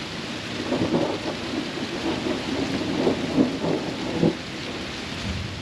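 Steady heavy rain, with a rumble of thunder rolling through for about three and a half seconds in the middle.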